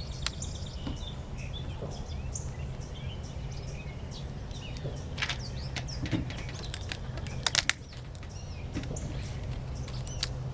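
Songbirds chirping and trilling again and again over a steady low outdoor rumble, with a quick cluster of sharp snaps about seven and a half seconds in.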